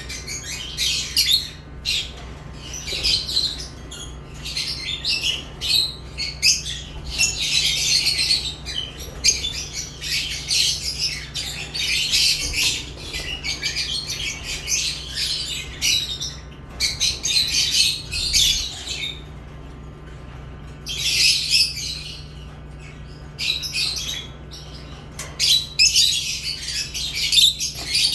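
Lovebirds chattering and squawking: a near-continuous run of shrill, rapid calls, with a brief lull about two-thirds of the way through. A faint steady low hum lies underneath.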